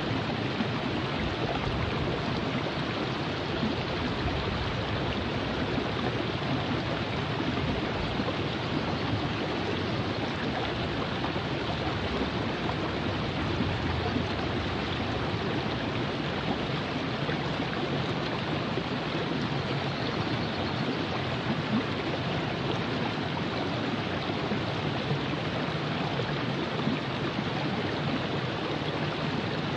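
Virgin River flowing: a steady, even rush of moving water.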